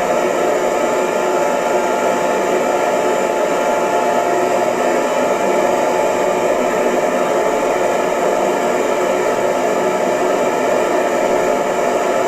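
Hair dryer running steadily: an even rush of blown air with a steady whine from its motor.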